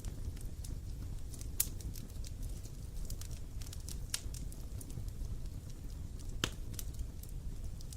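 Wood campfire crackling: irregular sharp pops and snaps of varied strength over a steady low rumble, the loudest pops about one and a half, four and six and a half seconds in.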